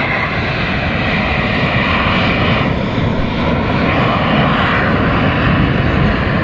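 Fixed-wing aircraft flying past at an airshow: loud, steady engine noise.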